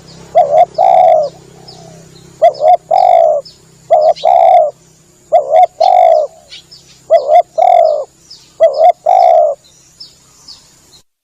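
Spotted dove (tekukur) cooing: about six repeated phrases, each a short coo followed by a longer one, with faint chirps of small birds behind. The sound cuts off abruptly just before the end.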